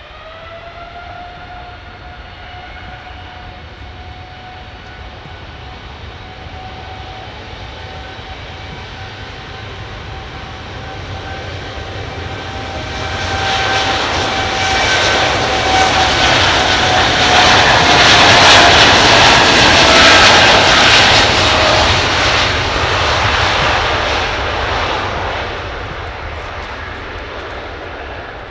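Boeing 787-9 airliner's twin jet engines at takeoff power: a whine rises at the start and holds steady, then the engine roar swells to its loudest about two-thirds of the way through as the jet passes, the whine dropping slightly in pitch, and fades near the end.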